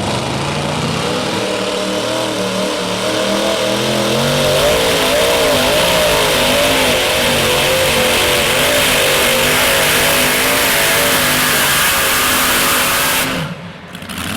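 Modified pulling tractor's engine at full power on a run with the sled, running loud and steady with a wavering pitch. The sound drops away sharply about a second before the end.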